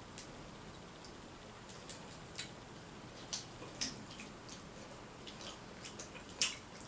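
Close-up eating sounds of a seafood boil: scattered short wet clicks and smacks from chewing and working crab and shellfish out of the shell, with the loudest one near the end.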